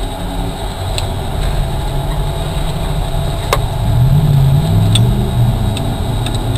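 Ford Focus competition car's engine idling, heard from inside the stripped cabin, rising and getting louder about four seconds in. A sharp click sounds about halfway through.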